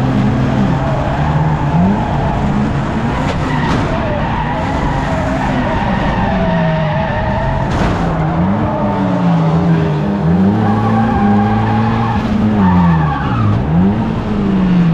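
1300cc stock car engines racing, several at once, their revs rising and falling again and again through the turns.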